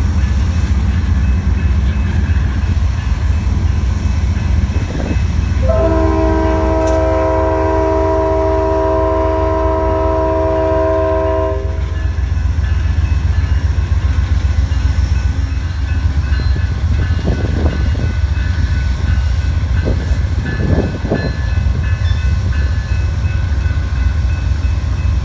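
Diesel locomotive running with a steady low rumble, its air horn sounding one long blast of about six seconds, starting about six seconds in.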